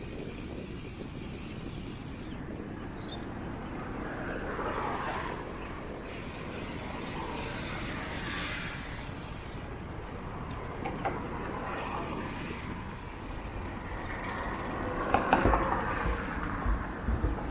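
Steady ride noise from a bicycle rolling along a wet path, with a few sharp knocks and rattles near the end.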